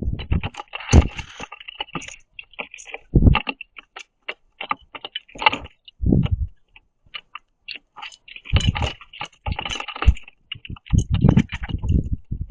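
Birds pecking and picking at seeds on a platform feeder: irregular sharp taps and cracks with short scuffles, broken by several low thumps.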